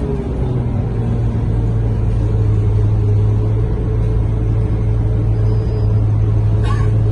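Scania K230UB bus's diesel engine running with a steady low drone, heard from inside the cabin while riding. A brief click sounds near the end.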